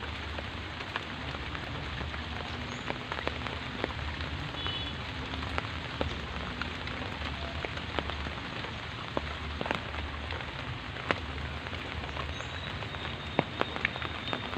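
Steady rain falling, a constant hiss with many sharp, scattered ticks of individual drops through it.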